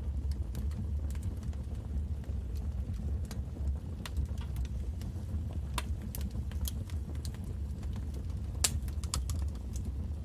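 Wood fire burning in a fireplace, crackling with scattered sharp pops over a low steady rumble; one louder pop comes a little past eight seconds in.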